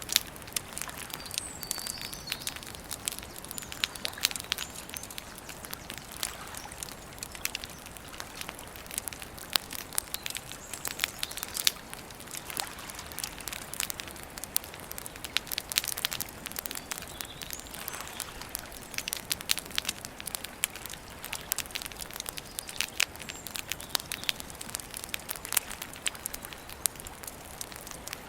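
Campfire crackling, with frequent irregular sharp pops and snaps over a steady hiss of burning wood. A few faint bird chirps come through now and then.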